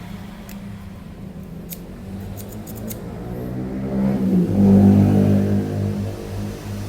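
A motor vehicle engine running with a steady hum that builds, dips briefly in pitch, then is loudest about four to five seconds in. Faint clicks of handled plastic packaging sit over it.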